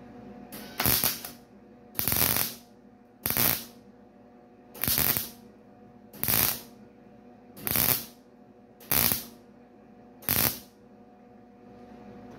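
Wire-feed MIG welder making a run of short stitch welds on thin stamped steel: eight brief arc bursts, each under half a second, about one every 1.3 seconds, over a steady low hum. The heat is set low and the welds are kept short because the thin, stretched metal was burning through.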